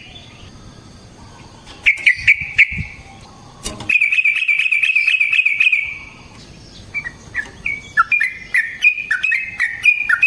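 Yellow-vented bulbul (trucukan) singing. A short burst of bubbling notes comes about two seconds in, a long fast rattling trill runs from about four to six seconds, and a run of short liquid notes follows near the end. A single sharp click comes just before the trill.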